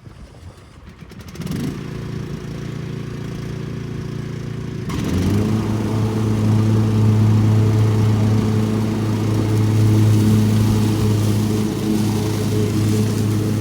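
Riding lawn mower's engine running steadily. It grows louder about a second and a half in, steps up again about five seconds in, and holds there.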